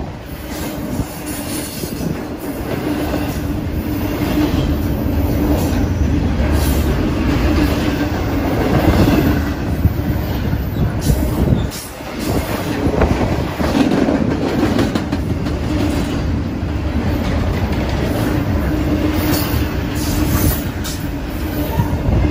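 BNSF double-stack intermodal container cars rolling past at close range: a steady heavy rumble of steel wheels on the rails with a constant low hum, occasional sharp clanks, and a brief lull about twelve seconds in.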